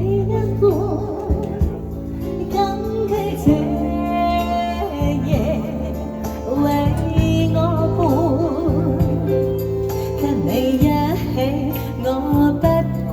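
Female vocalist singing a slow ballad with vibrato over a recorded backing track.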